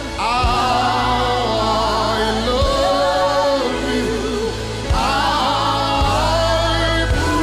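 Gospel worship music: sustained sung phrases with vibrato, a new phrase starting about five seconds in, over steady held bass and keyboard notes.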